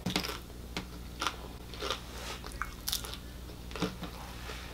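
Close-up chewing of a mouthful of crunchy hard taco shell: a string of short, irregular crunches, roughly one every half second.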